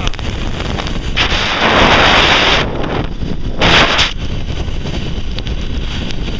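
Wind buffeting the microphone, rushing with two stronger gusts, one about a second in and a shorter one near the middle.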